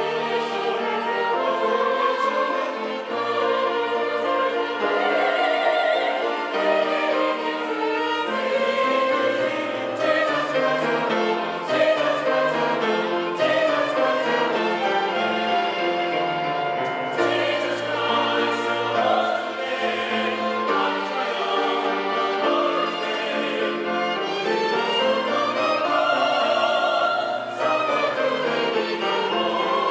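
Church choir singing in parts with instrumental accompaniment.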